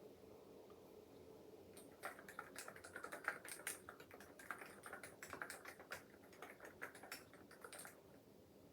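Typing on a COX CF75 mechanical keyboard with orange switches: a quick, uneven run of key clicks that starts about two seconds in and stops near the end, after a quiet start.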